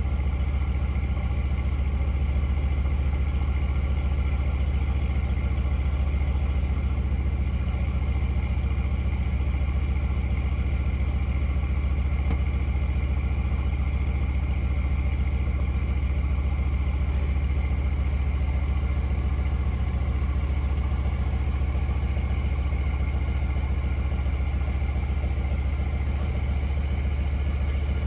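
Mercedes-AMG C63's 4.0-litre twin-turbo V8 idling steadily, with a deep, even exhaust note and no revving.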